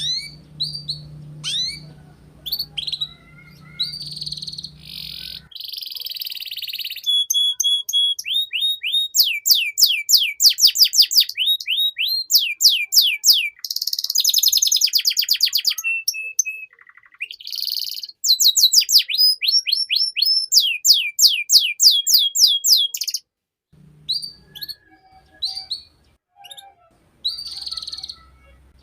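Domestic canary singing a long, varied song of fast trills: rapid runs of repeated downward-sweeping whistled notes and dense buzzy rolls, changing from one phrase to the next with brief pauses between.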